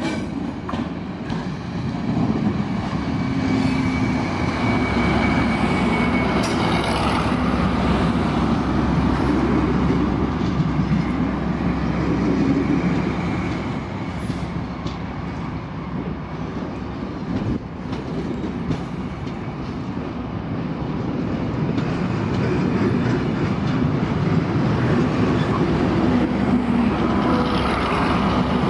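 Locomotive-hauled test train of coaches passing close, with Class 73 locomotive 73965 at the rear: a continuous rumble of wheels on the track with clicking over rail joints and a steady low hum. It grows louder about two seconds in, eases off midway, and swells again near the end as the rear locomotive draws level.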